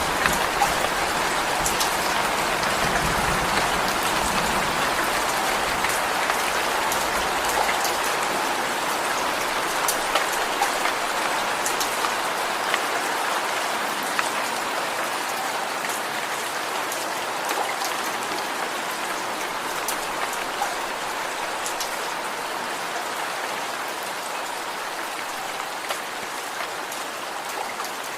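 Steady rain falling, with the sharp ticks of individual drops striking a surface; it grows gradually quieter toward the end.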